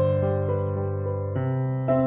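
Background music: soft piano or electric piano playing sustained chords over a held bass, new notes coming in about every half second.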